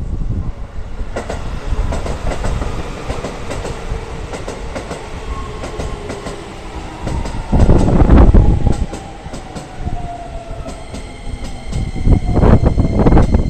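Keisei electric train running and slowing, its motor whine falling slowly in pitch, with loud passages of wheel rumble and clatter over the rails about halfway through and again near the end; steady high-pitched tones set in near the end.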